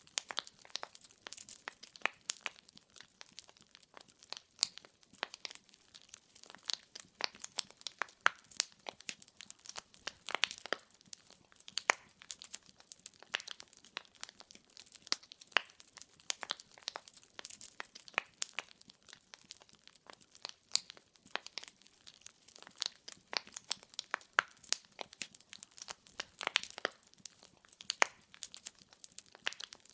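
Wood fire in a fireplace crackling: a dense, irregular stream of sharp pops and snaps from burning firewood logs.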